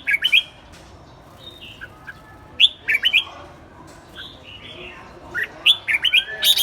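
Birds chirping: short, sharp, downward-sweeping chirps that come in small clusters every couple of seconds, turning into a fast run of chirps at the very end.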